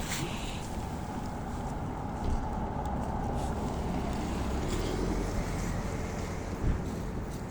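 Wind noise on the microphone: a steady, even rush with no engine note, and a short bump about two seconds in and another near the end.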